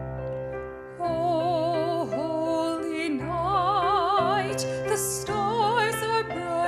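Piano accompaniment, joined about a second in by a classically trained singer, sung with a wide vibrato.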